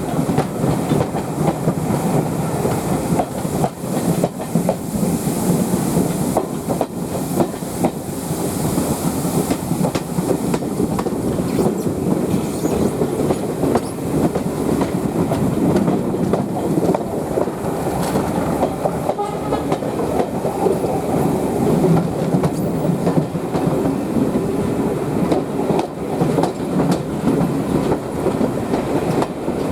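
Heritage railway carriage running along the track behind a steam tank engine, heard from on board: a steady rumble of wheels on rail with frequent irregular clicks and rattles from the rail joints and the coach.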